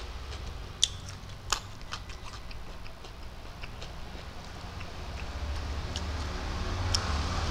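Eating sounds: a man chewing a mouthful, with scattered wet mouth smacks and clicks, the sharpest about a second in, over a low steady hum.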